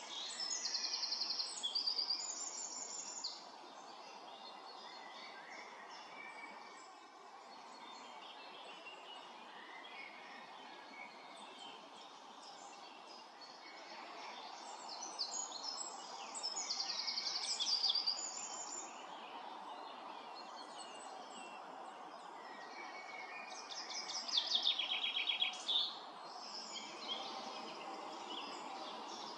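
A songbird singing three phrases of rapid, high trilled notes, each lasting two to three seconds, over a steady background rush.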